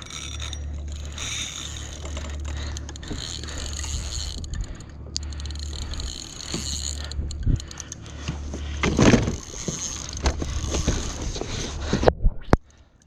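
Water sloshing around a kayak's hull, with wind rumbling on the microphone. There is a louder splash about nine seconds in and a few sharp knocks near the end.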